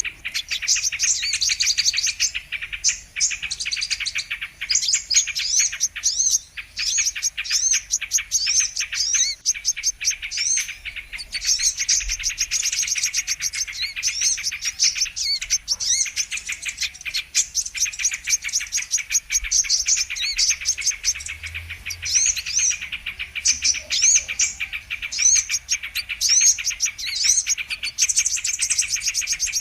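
Kolibri kelapa sunbirds calling in a dense, unbroken stream of rapid high chirps and trills, a bird-lure recording of the kind played to draw wild birds in for trapping.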